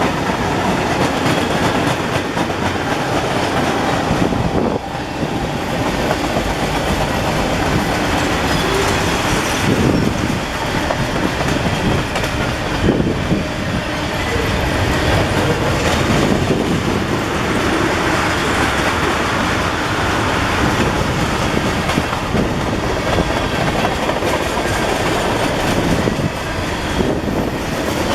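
CSX manifest freight train's cars rolling past at close range, wheels clacking over the rail joints in a steady, loud rumble.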